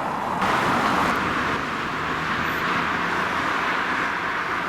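Steady road and wind noise while riding a bicycle alongside car traffic, becoming louder about half a second in.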